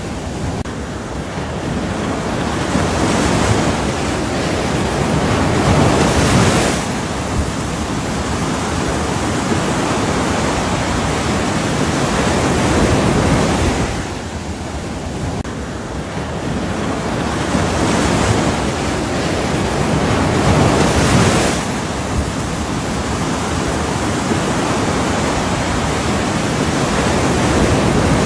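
Ocean surf: waves breaking and washing in, swelling and falling away about every seven to eight seconds, four times.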